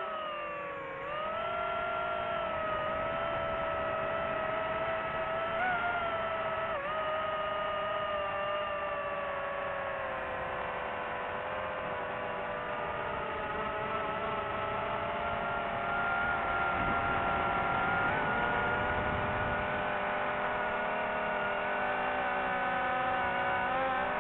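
Quadcopter drone's propellers whining steadily in flight, the pitch drifting slightly as the throttle changes and rising a little in the second half.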